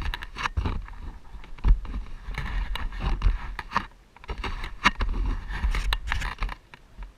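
Irregular scraping, rustling and sharp knocks, as of things being handled and moved about, with no engine running.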